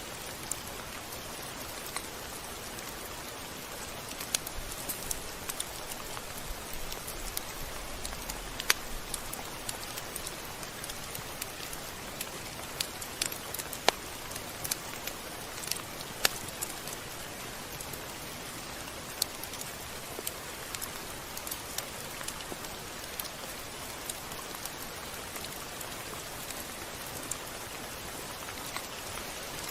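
Steady rain falling, an even hiss with scattered sharp ticks of drops hitting a surface.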